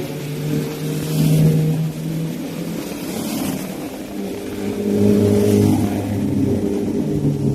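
Car engine running under way, its pitch stepping up and down as the revs change.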